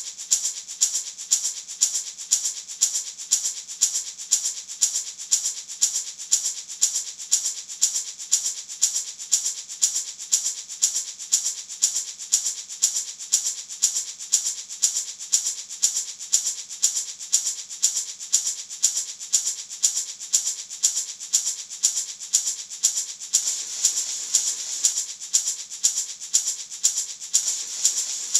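Natural gourd maraca shaken in a steady, even rhythm, a dry high rattle of seeds against the gourd shell on every stroke.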